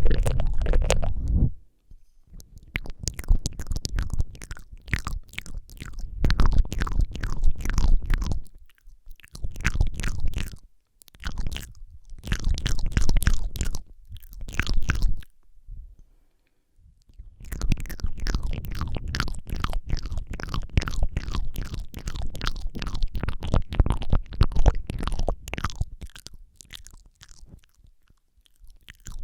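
ASMR mouth sounds very close on a Rode microphone: dense runs of wet tongue and lip clicks and smacks with a heavy low end, broken by several short pauses.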